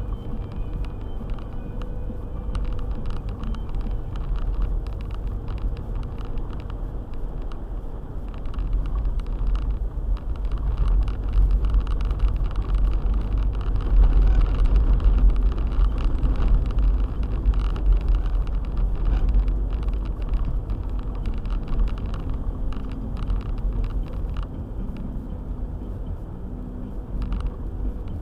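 Car driving on a snow-drifted road: a steady low rumble of engine and tyres that swells louder for several seconds around the middle, with scattered faint ticks.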